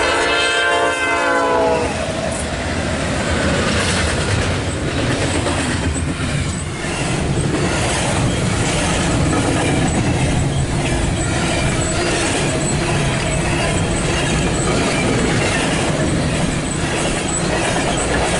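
Freight locomotive horn sounding, its chord sagging slightly in pitch before it cuts off about two seconds in; then the loud, steady rumble and clatter of a Norfolk Southern double-stack intermodal train's container cars rolling past on the rails.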